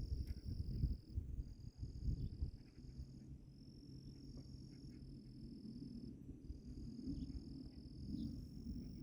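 Insects trilling high and steady in phrases a second or two long with short breaks between them, over a low rumbling outdoor noise that is heavier in the first couple of seconds.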